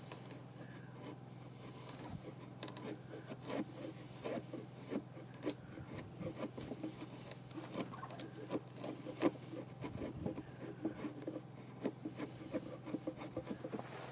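Hand tool working wood, irregular short scrapes and small clicks as waste is chipped and scraped out of a notch, over a steady low hum.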